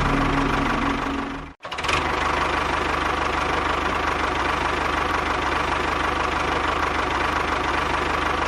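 Engine running steadily with a fast, even knock. It cuts out abruptly for a moment about one and a half seconds in, then carries on unchanged.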